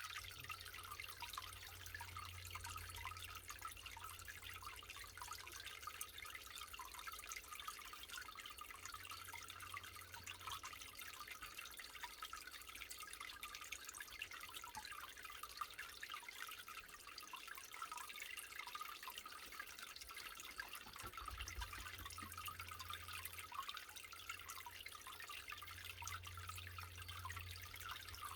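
Shower water spraying and dripping: a steady, fairly faint hiss thick with small droplet ticks.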